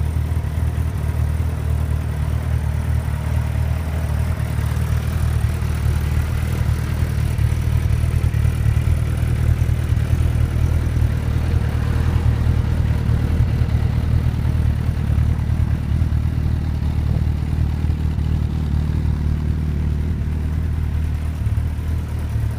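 Suzuki GSX1300R Hayabusa inline-four idling steadily through a Wyvern aftermarket muffler, a deep, even exhaust note with no revving.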